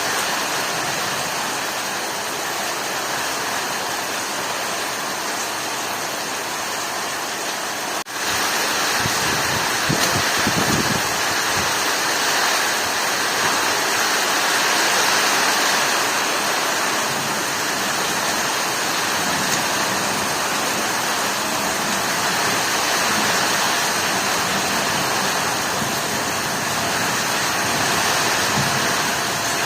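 Heavy storm rain pouring steadily, a dense hiss of falling water. It briefly drops out about eight seconds in, then carries on a little louder.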